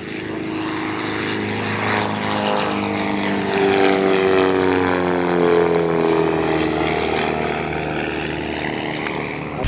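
Propeller-driven display aircraft flying past, its engine note rising and then falling in pitch as it passes, loudest around the middle.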